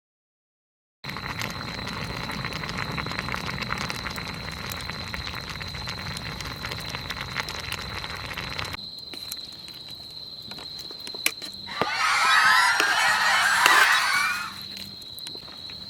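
A flock of birds calling, goose-like honking, for about two and a half seconds near the end, the loudest thing here. Before it, after a second of silence, runs a steady noise with fine crackles and a thin high steady tone.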